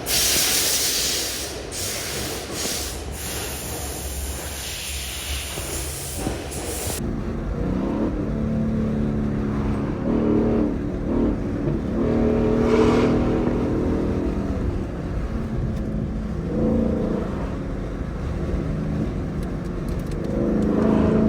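Car engine running, its pitch rising and falling. It follows a loud steady hiss that cuts off abruptly about seven seconds in.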